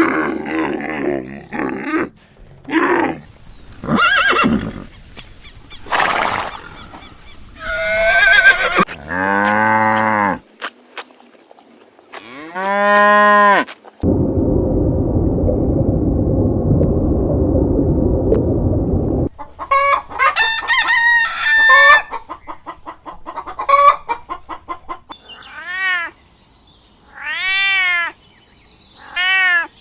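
A run of separate animal calls one after another, among them chicken calls and a rooster crowing. A few seconds of steady noise sit in the middle.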